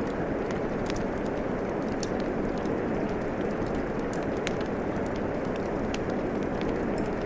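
Steady rain falling, mixed with a wood fire crackling: a continuous even hiss with small, sharp pops scattered irregularly throughout.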